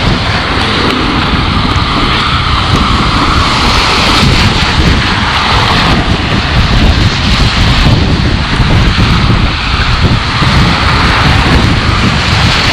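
Loud, steady rushing noise of outdoor storm air, with low rumbling buffeting on the microphone.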